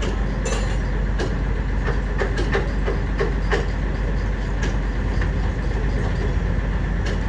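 A heavy engine running steadily with a deep rumble, with scattered metallic clicks and knocks over it in the first few seconds.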